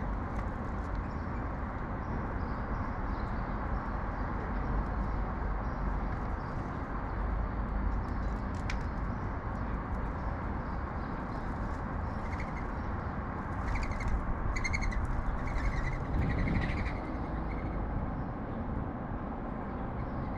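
Sparrows chirping in short repeated bursts, mostly in the second half, over a steady low background rumble of urban noise.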